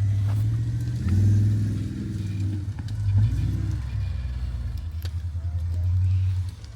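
Off-road vehicle engine, a Jeep's to judge by the video, running at low revs and blipped up twice, with a few knocks.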